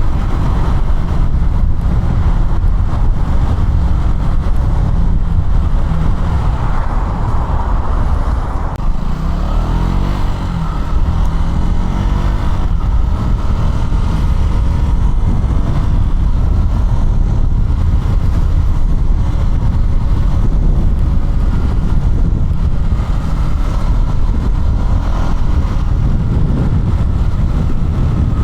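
KTM Duke 200's single-cylinder four-stroke engine running under way, with heavy wind rush on the microphone. The engine note falls and climbs again about ten seconds in, as the bike slows and pulls away.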